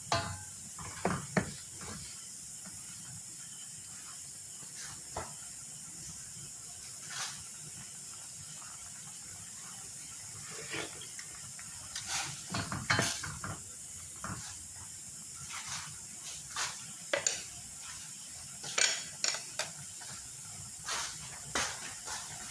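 Scattered clicks and knocks of a utensil against a cooking pot, more frequent in the second half, over a steady high hiss from the simmering pot.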